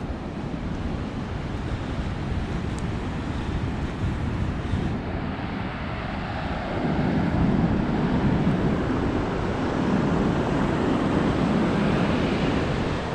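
Ocean surf washing, with wind buffeting the microphone. A louder rushing swell builds about halfway through and holds to the end.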